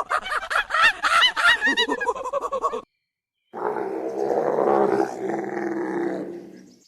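Animal calls: a rapid run of short, chirping calls, about five a second, that stops abruptly. After a brief gap comes one long, low, rough call.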